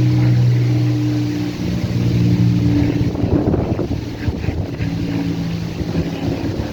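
A steady low engine drone with a few even overtones, fading out about three seconds in and briefly returning later. Gusts of wind buffet the microphone from about three seconds in.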